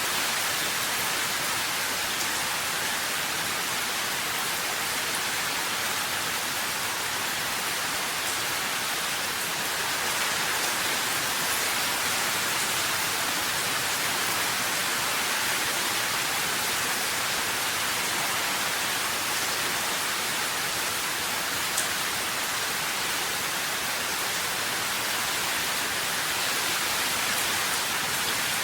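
Steady rain, an even hiss of many drops with no single drop standing out, and one faint click about three quarters of the way through.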